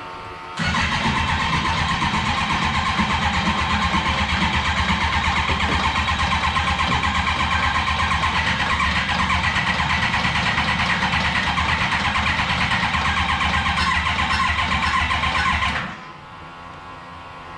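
Motorcycle engine in a car being cranked over on its starter for about fifteen seconds with an even rapid pulse, never catching, then the cranking cuts off abruptly. The owner puts the failure to fire down to too little fuel pressure, with air in the fuel line.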